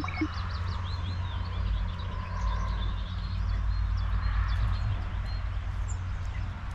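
Small songbirds at a garden feeder chirping faintly in short, quick notes, over a steady low hum.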